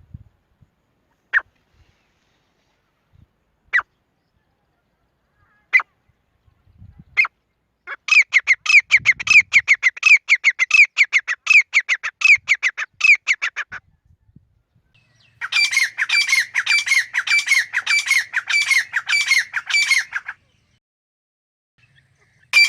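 Grey francolin calling: a few single sharp notes a second or two apart, then two long runs of rapid, repeated high calls, each lasting about five or six seconds.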